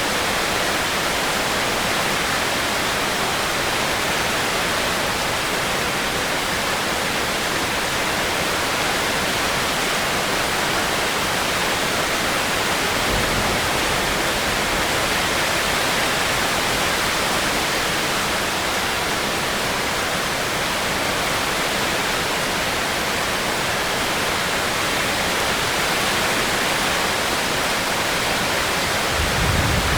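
Steady heavy rain, an even hiss with no let-up. A brief low rumble comes in about halfway and again, a little louder, near the end.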